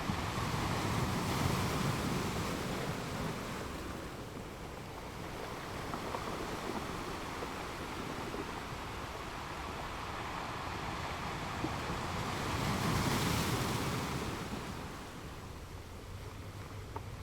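Ocean waves breaking and washing on a shore, rising to two louder surges, the first about a second in and the bigger one near the end, then easing off.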